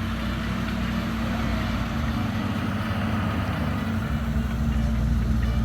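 A vehicle engine running steadily, getting slightly louder toward the end.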